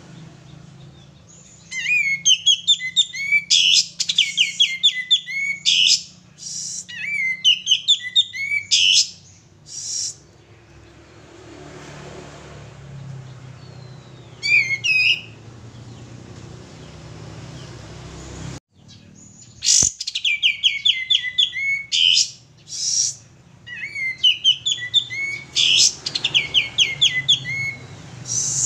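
Male kapas tembak, a bulbul, singing in bursts of quick, rapidly repeated whistled notes, each phrase lasting one to two seconds, with a quieter lull in the middle. The song is the bird in full active voice, used as a lure call to set other birds singing.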